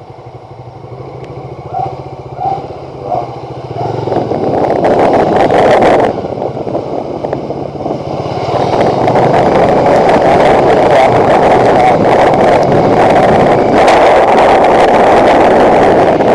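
Bajaj Dominar 400 motorcycle's single-cylinder engine running at low speed as the bike gets under way, then wind rush over the microphone building about four seconds in and staying loud and steady at cruising speed.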